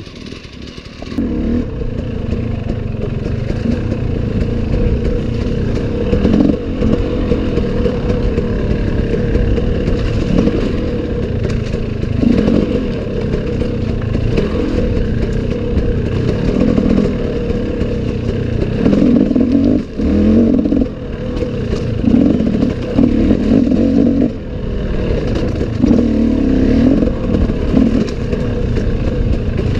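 Enduro dirt bike engine running under load as it is ridden, the throttle opening and closing in many short swells and the sound picking up about a second in.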